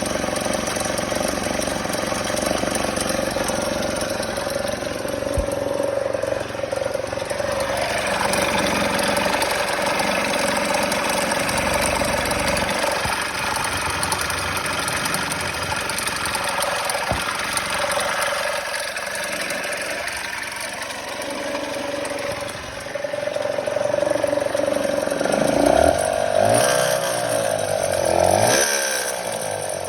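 Kymco Super 8 50cc two-stroke scooter engine running with an odd mechanical noise that the owner can't place, after fitting a Naraku derestricted variator with 8 g rollers. It is revved up and down several times in the last few seconds.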